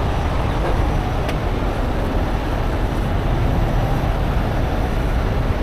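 Steady low rumble of a heavy truck's diesel engine running, with one faint click about a second in.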